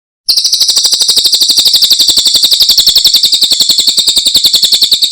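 Cililin songbird singing a loud, fast, even trill of high notes, about fifteen a second, which starts abruptly just after the beginning.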